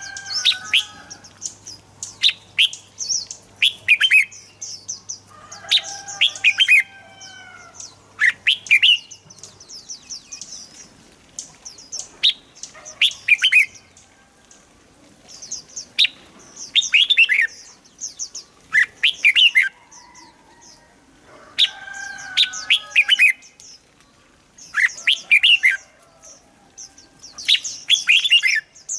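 Red-whiskered bulbul singing: short, quick phrases of bright, sweeping chirps, repeated every second or two with brief pauses between bouts.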